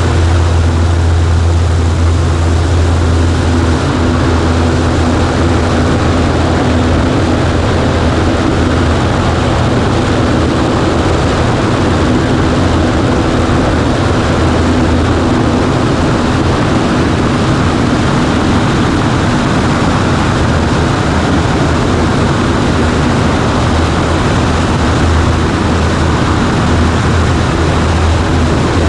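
Cessna 140A's piston engine and propeller droning steadily.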